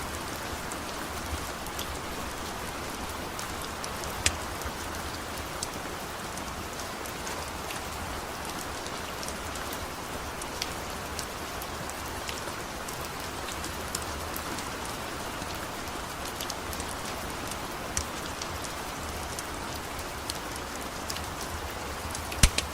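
Steady rain hissing, with scattered sharp pops and crackles from a wood-burning fire: one stronger pop about four seconds in and a quick cluster of pops near the end.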